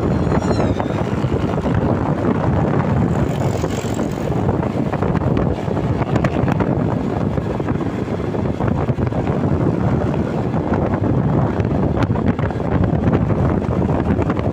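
Road traffic rumbling past at close range, with wind buffeting the microphone throughout.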